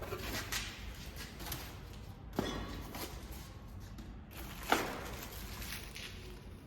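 Handling noises: scattered knocks and thuds, with two sharper, louder knocks about two and a half and five seconds in.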